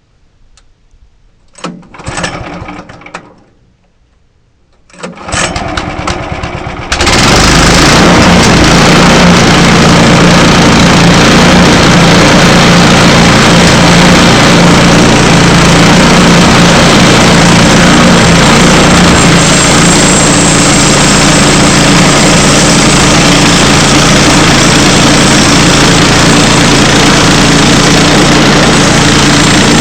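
Small gasoline engine starting: two brief attempts in the first few seconds, then it catches about seven seconds in and runs loudly and steadily at high speed.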